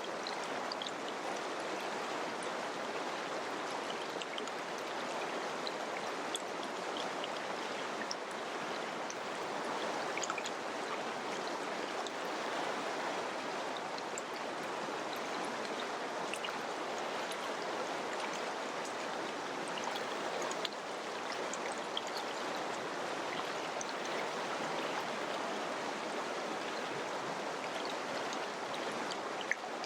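Mountain river or stream flowing over rocks: a steady rush of water with small splashes and droplets ticking through it.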